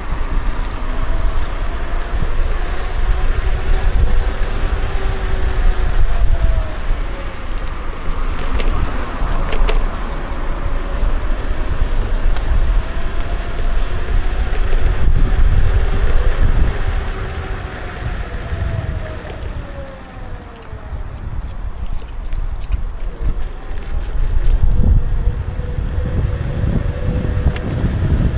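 Wind buffeting the microphone as a Kukirin G2 electric scooter rides along, with its electric motor's whine rising and falling in pitch as the speed changes. The rush eases for a few seconds about two-thirds of the way through, then builds again.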